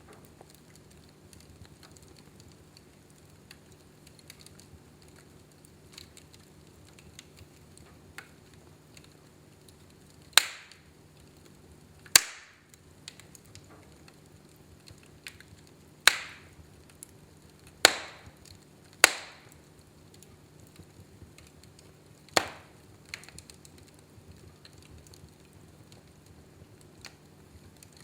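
Wood fire burning in a fireplace: faint steady crackling, broken by six loud sharp pops, as from burning logs, between about ten and twenty-two seconds in. A steady low hum runs underneath.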